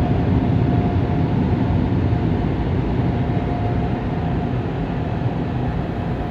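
Automatic car wash air-dryer blowers blasting air over the car, heard from inside the cabin as a steady rushing noise with a faint steady whine.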